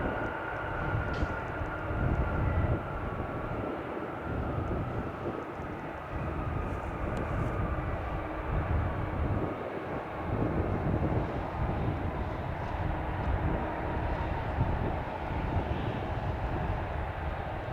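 Jet airliner engines running, a steady rumble with a faint whine that slowly falls in pitch.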